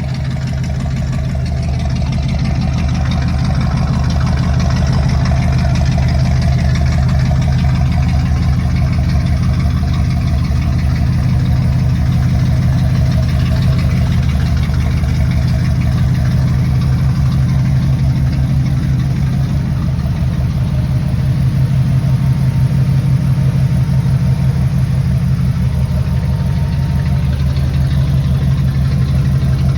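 1969 GMC pickup truck's engine idling steadily.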